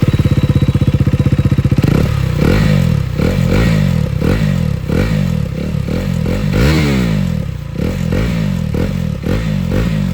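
KTM Duke 390 single-cylinder engine through an aftermarket Akrapovic exhaust with the dB killer removed. It idles for about two seconds, then is blipped about fifteen times in quick succession, with one longer rev about two-thirds of the way through, before settling back.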